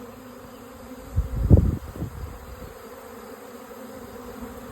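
A swarm of honeybees buzzing all around, a steady dense hum. About a second and a half in there is a brief louder low buffet on the microphone.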